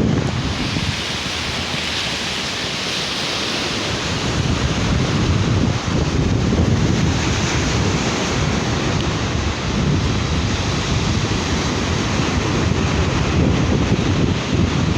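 Sea waves breaking and washing up on a beach, with a hissing wash over the first few seconds, and wind buffeting the microphone.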